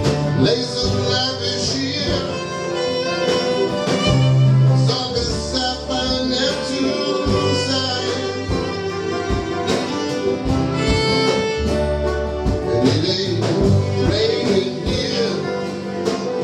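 Live string band playing a country-style song, with guitar and fiddle, during an instrumental stretch without sung words.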